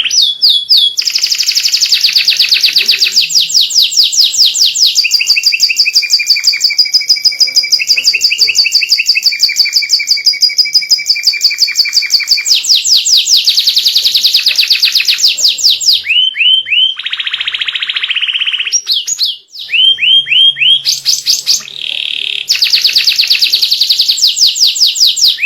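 White canary singing loudly in long, rapid trills of repeated notes, switching from one trill to another every few seconds, with a short break about 19 seconds in.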